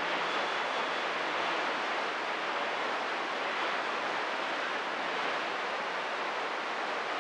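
Steady hiss of radio static from a receiver between transmissions, with no signal coming through.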